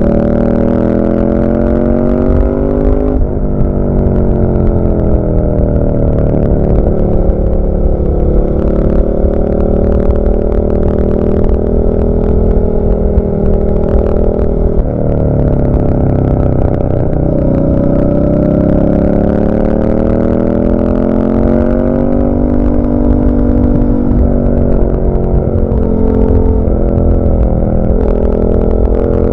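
Suzuki SV650's 645 cc V-twin through an SC-Project carbon oval silencer with the dB killer fitted, under way: the engine climbs in revs, drops at a shift about three seconds in and climbs again. It holds steady, falls off sharply around the middle and pulls up again, with several quick up-and-down changes near the end.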